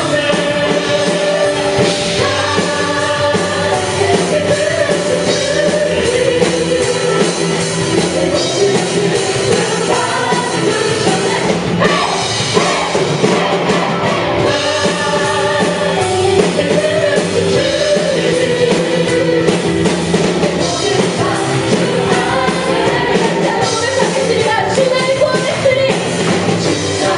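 A live praise band playing a worship song with singing voices over the band and drums.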